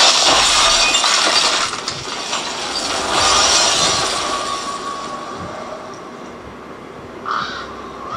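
Dramatic TV sound effects: a loud crash like ice or glass shattering, fading away over several seconds, as a White Walker breaks apart when stabbed with dragonglass.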